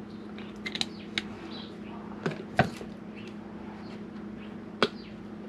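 A few light clicks and knocks of kitchen items being handled during marinade prep, over a steady low hum.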